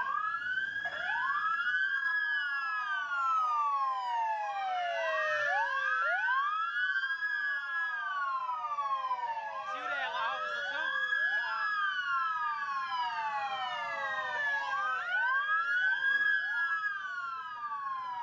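Several police car sirens wailing at once, overlapping and out of step. Each climbs quickly, holds its top note, then slowly falls, over and over, as police move in to clear the car meet.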